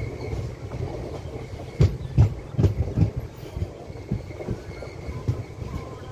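Express train running at speed, heard from a passenger coach: a steady rumble of wheels on the track, broken about two seconds in by a quick run of four loud wheel knocks, with a few softer knocks after.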